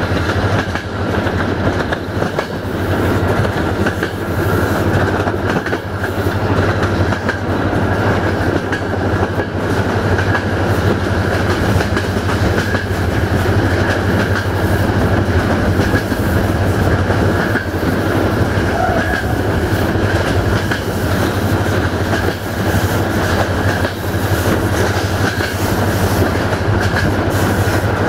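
Passenger coaches running at speed, heard from an open coach window: a steady rolling rumble with the wheels clicking over the rail joints and a steady low hum underneath.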